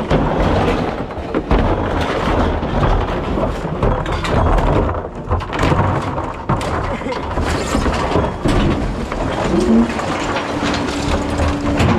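Rear-loader recycling truck at work: a loud, continuous rumble full of clattering knocks, with a steady hum coming in about ten seconds in.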